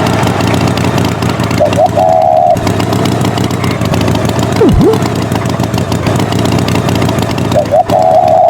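Engine running steadily, most likely the tractor's engine. A higher wavering tone comes in briefly about two seconds in and again near the end, and a quick deep sweep falls and rises about halfway through.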